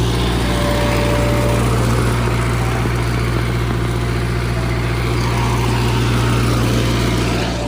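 Ice cream truck's engine running steadily, a constant low hum under a dense mechanical noise.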